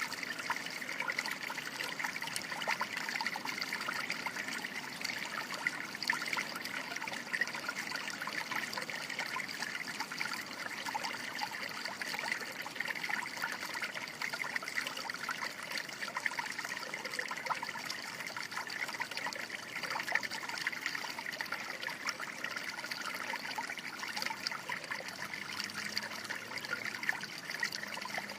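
Water running and trickling steadily outdoors, a continuous splashing babble with many small droplet sounds.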